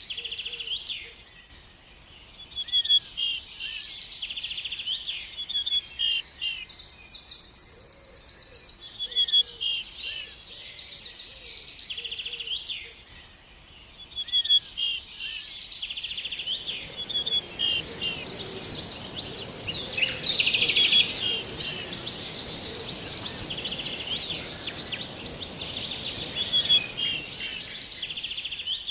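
Bird singing, repeating short chirped and trilled phrases with brief pauses between bursts. About halfway through, a steady high hiss and a soft background rush come in under the song.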